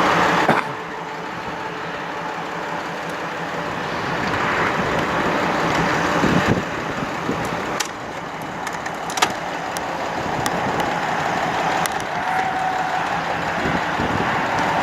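Bucket truck's diesel engine running steadily, with a few short sharp clicks scattered through it.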